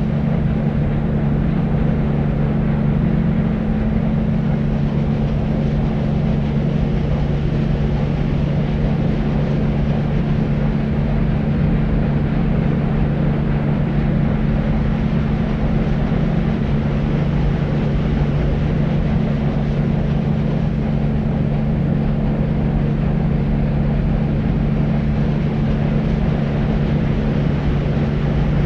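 Deep white noise: a steady, unchanging low rushing noise, heaviest in the bass with a low hum-like band, of the kind played to soothe babies to sleep.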